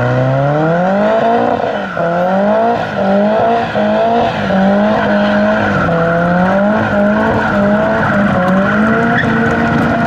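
Car engine revving up hard over the first two seconds, then held high with the revs rising and falling about once a second, while the tyres squeal steadily: a burnout.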